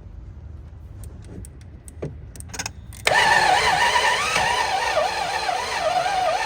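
A few light clicks, then about three seconds in the starter suddenly begins cranking the 1995 BMW 750iL's V12, a steady whirring that wavers in pitch. It is another start attempt on the long-dormant, flood-damaged engine.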